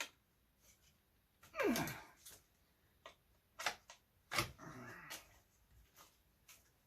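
Scattered clicks and knocks of a plastic-cased eMac computer and tools being handled while it is taken apart, the loudest knock about four and a half seconds in. About a second and a half in there is a short sound falling in pitch.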